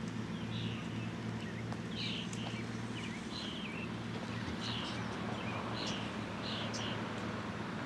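A bird chirping over and over, short calls about once a second, over a steady low engine-like hum.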